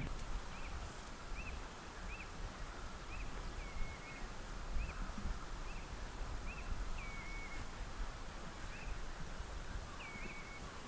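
A bird calling repeatedly with short, high chirps, roughly one or two a second, now and then drawn out into a longer flat note, over a steady low background rumble.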